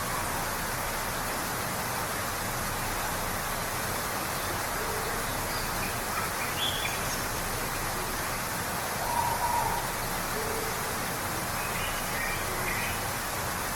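Waterfall rushing steadily, with a few short bird calls over it; the clearest comes about nine seconds in.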